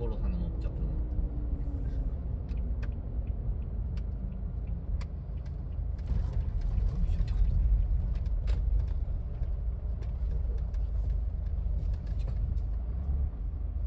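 Car on the move: a steady low rumble of engine and road, with a whine falling in pitch over the first few seconds and scattered light clicks.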